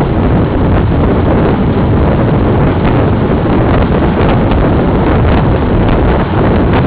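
Wind buffeting the microphone of a camera on a bicycle moving at speed, a loud steady rush strongest in the low range, with a few faint ticks.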